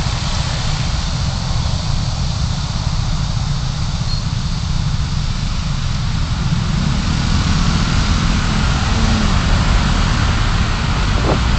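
Car engine and road noise: a steady low rumble that grows a little louder about two-thirds of the way through.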